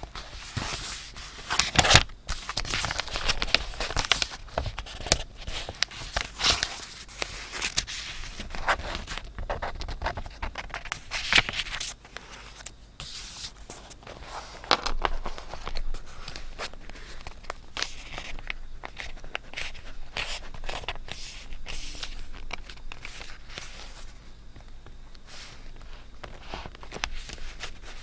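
Paper being handled: crisp rustling, crinkling and scraping of paper and card, with many small taps and rustles, busiest and loudest through the first half and sparser after.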